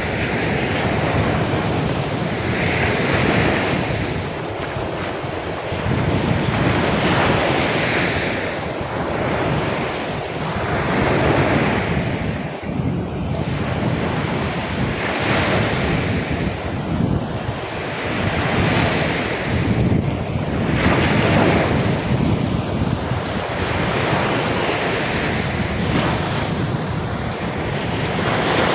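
Rough sea surf breaking on the beach under storm wind, the waves swelling and washing in every few seconds, with wind buffeting the microphone.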